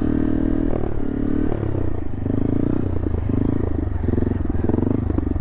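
Motorcycle engine running as the bike is ridden; its pitch steps up and down as the throttle is worked, with a change about a second and a half in.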